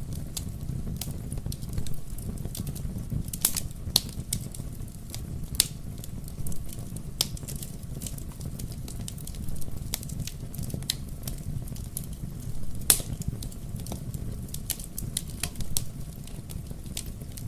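Wood fire in a fireplace, crackling and popping at irregular moments over a steady low rumble of the burning.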